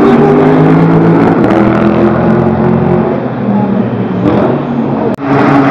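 A sports car's engine running hard as it passes, its note fading away after about three seconds. A sudden break about five seconds in, then another engine loud again.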